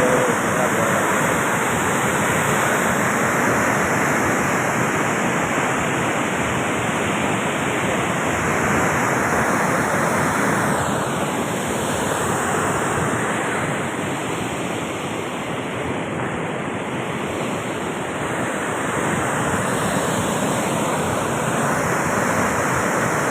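Floodwater rushing past in a steady, loud wash of noise, easing off slightly for a few seconds past the middle.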